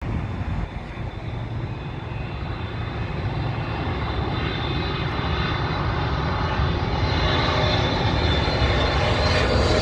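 Jet engines of a Boeing 777 airliner passing nearby: a steady rumble with a high whine on top, growing steadily louder as the aircraft approaches.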